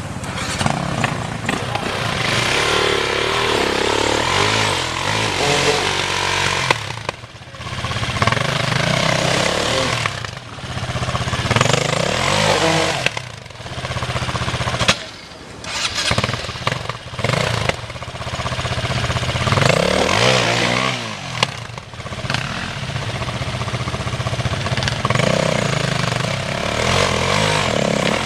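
Dirt bike engines revving hard and easing off again and again, the pitch rising and falling, with several brief drops in the revs.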